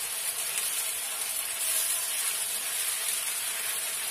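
Bheja fry (goat brain in oily onion masala) sizzling steadily in a frying pan while a spatula stirs it and scrapes the pan.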